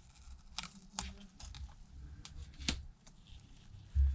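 Scattered light clicks and ticks from handling a replacement iPad Pro screen while its tape is peeled off, with a soft thump near the end.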